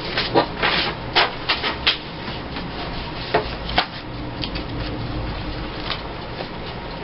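Paper pictures rustling and being shuffled by hand: a quick flurry of crisp rustles in the first two seconds, two more a little past the middle, then softer handling, over a steady low hum.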